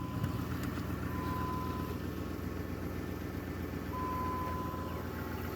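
The 5.7 Hemi V8 of a 2005 Jeep Grand Cherokee idling steadily just after starting. A faint high, steady tone sounds twice, for under a second each time, about a second in and again near the end.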